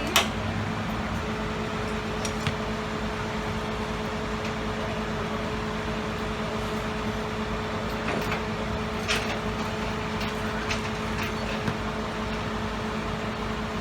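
Steady machine hum holding two constant tones, with a few short clicks and knocks scattered through it, the loudest just after the start.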